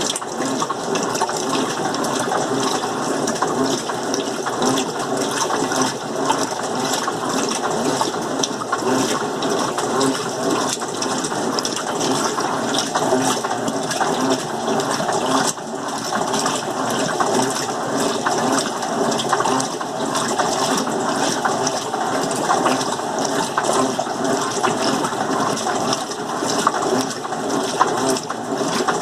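Electrolux LM08 top-loading washing machine running its rinse stage, water pouring steadily into the tub as it fills.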